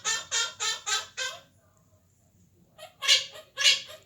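Quaker parrot (monk parakeet) giving runs of short, repeated calls, about three a second, with a pause of about a second and a half in the middle before a louder run starts.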